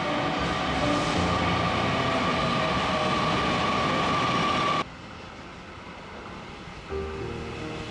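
Train noise at a railway station: a steady rumble with a held high squeal that cuts off abruptly about five seconds in, leaving quieter rail and station noise.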